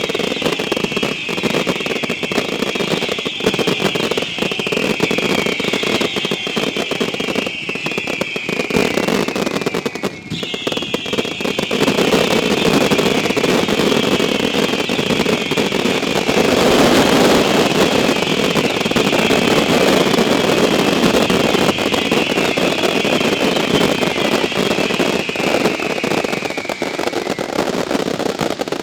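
Fireworks display: many whistling fireworks going off together, their slightly falling whistles overlapping, over a dense bed of crackling and pops. The whistles break off briefly partway through and fade out near the end.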